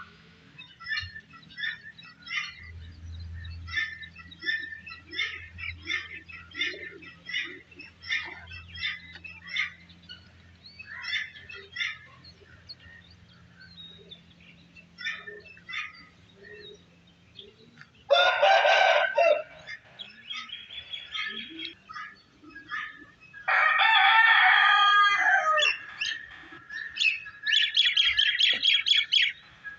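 Small birds chirping in short repeated notes, then a rooster crows twice, loudly: once about 18 seconds in and again a few seconds later, the second crow longer. A fast run of high chirps follows near the end.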